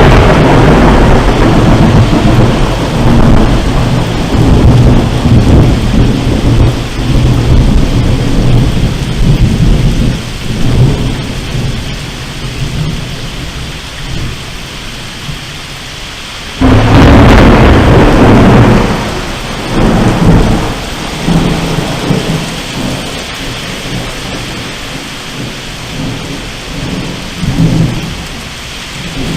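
Thunder over steady rain. A long rolling rumble fades away over the first half, then about halfway through a sudden loud clap breaks out and rolls off over several seconds.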